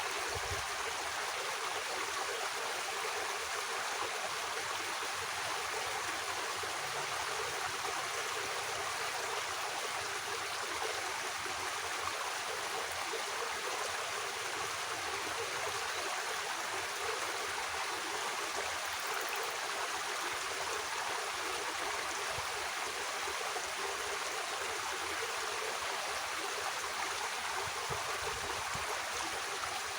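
Water running steadily in a small irrigation ditch, an even rushing trickle.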